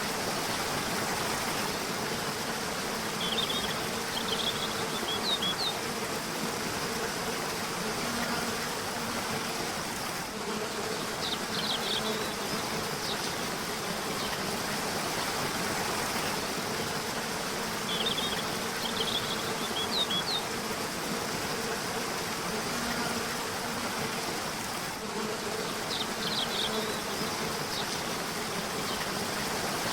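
Steady rush of a river or waterfall with a low buzz that swells and fades. Short clusters of quick high bird chirps break in four times, about every seven or eight seconds.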